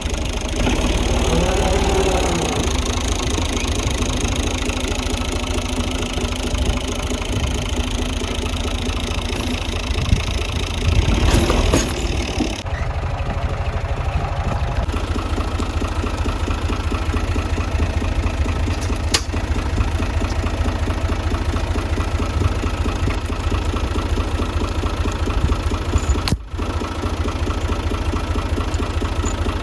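Tractor engine running steadily at idle, a continuous low rumble, with an abrupt change about twelve seconds in and a short dropout near the end.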